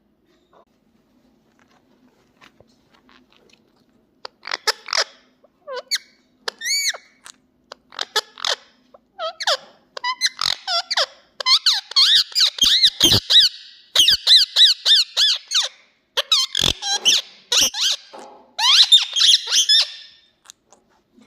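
Ringneck parakeet calling: a string of shrill, high-pitched chirps and squawks that starts about four seconds in and turns into rapid runs of repeated notes in the second half.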